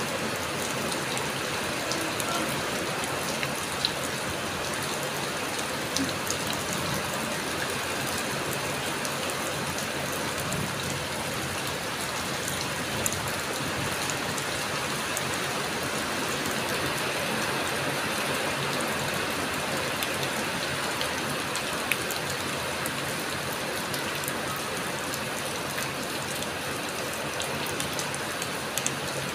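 Heavy rain pouring steadily: a dense, even hiss of rainfall with scattered sharp ticks of individual drops.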